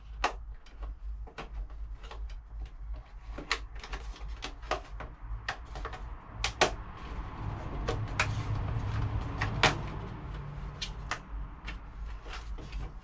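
Irregular sharp clicks and knocks of small parts and cables being handled and fitted into place while wiring a temperature controller, over a low steady hum.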